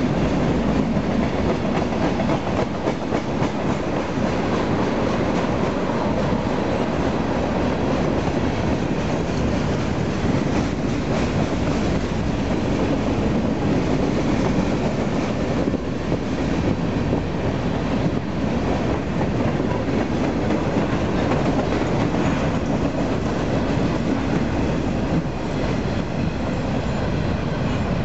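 Freight train of covered hopper cars rolling past at close range: a steady, loud rumble of steel wheels on the rails.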